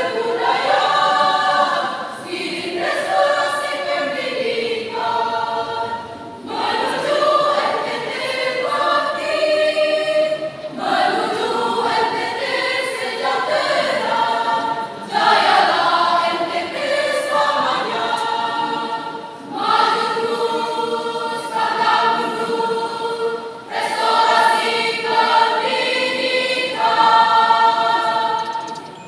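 High-school choir singing in several voice parts, in phrases with short breaks every few seconds; the song ends right at the close.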